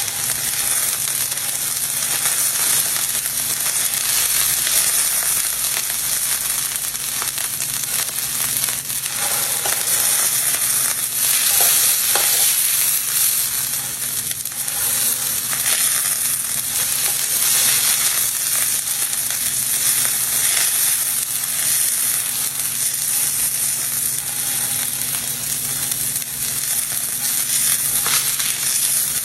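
Filet steak searing on a very hot griddle: a steady sizzle with occasional brief crackles.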